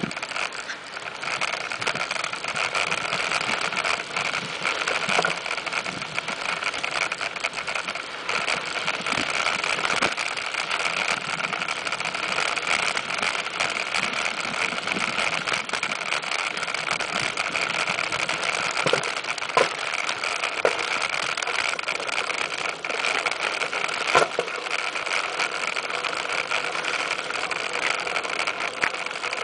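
Mountain bike being ridden: steady rolling and drivetrain noise, with a few sharp knocks and rattles from bumps, the loudest about three quarters of the way in.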